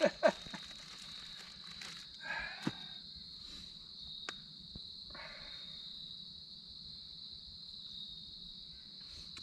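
Crickets chirping in a steady, high-pitched continuous trill, with a few brief handling clicks and two short rustles in the first half.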